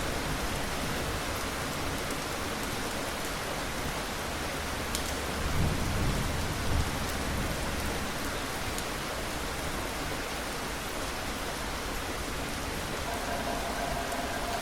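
Steady rain, with a low rumble of thunder about six seconds in. A faint steady tone joins near the end.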